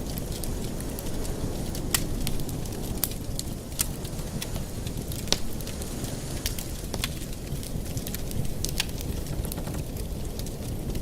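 Wood fire in a fireplace crackling, with irregular pops and a handful of sharper snaps over a steady low rushing sound.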